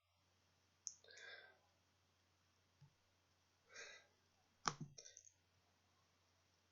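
Near silence with a few faint computer-mouse clicks: a light click about a second in, then a sharper click followed by a short run of small clicks about two-thirds of the way through. Two soft breathy sounds come in between.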